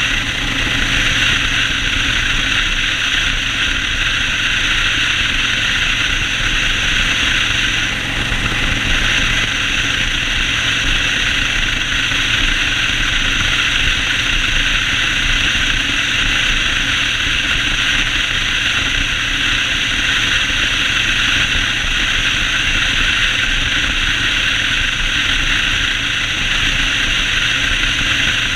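Yamaha Road Star 1600's air-cooled V-twin running steadily while the motorcycle is ridden, under a steady rushing hiss.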